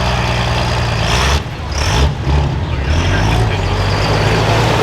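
Diesel pickup truck engine running loud, with two brief dips in the noise about one and a half and two seconds in.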